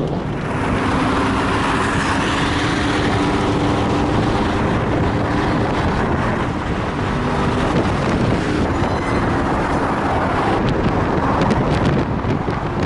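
Car driving at highway speed on a rain-wet road: steady tyre and road noise with a low engine hum underneath.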